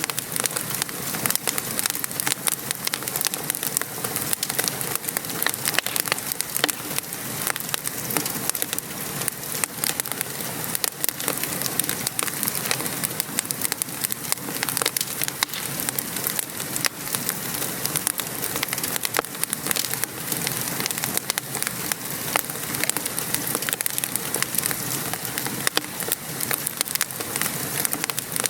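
Steady patter of rain mixed with the dense crackle and popping of a wood fire burning.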